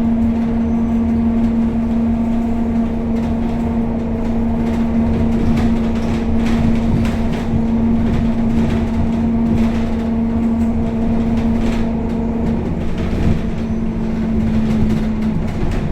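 Scania K270UB city bus heard from inside while driving: its 9-litre five-cylinder diesel and driveline run with a steady whine over a low rumble, with short body rattles, and the whine drops away near the end.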